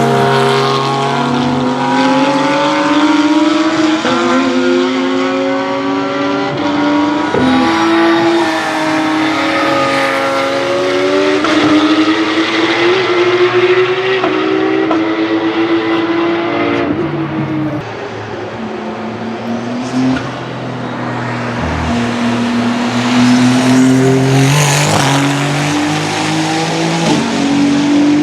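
Race car engines at full racing speed, several cars in succession, revs climbing and dropping through upshifts and downshifts as they pass. The sound dips about two-thirds of the way through, then swells again with the next car.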